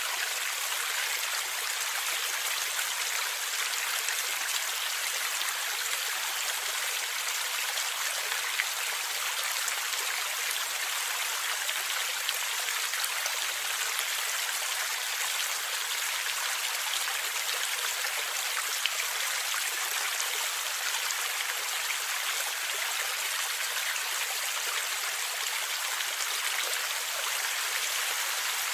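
Stream water flowing and gurgling steadily, an even hiss-like rush with little low rumble.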